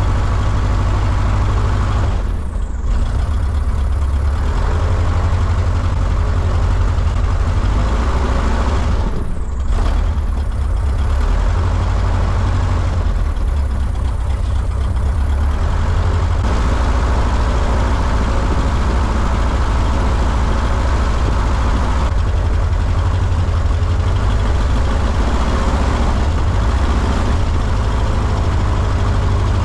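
Jodel DR1050 light aircraft's piston engine running steadily. It is being run to check a cylinder found with soft compression, which the owner suspects is a sticky valve.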